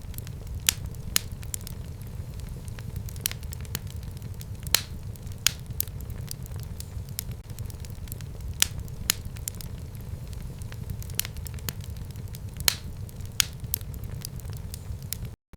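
Fire burning in a home fireplace, crackling with irregular sharp pops of varying strength over a steady low rumble of the flames. The sound drops out for an instant near the end.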